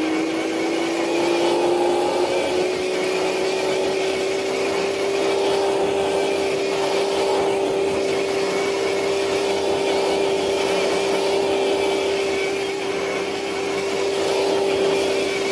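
Electric motor and drivetrain of a Traxxas TRX4 RC truck whining steadily under load while it drags a dead sled. The pitch climbs slowly over the first few seconds, then holds steady.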